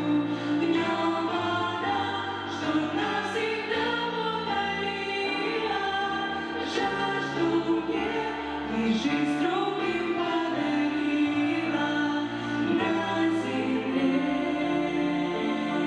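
Choral singing with musical accompaniment: several voices holding sustained, slowly changing chords.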